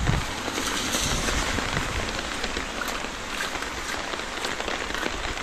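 Rain falling steadily on a street and on foliage: an even hiss flecked with the patter of individual drops.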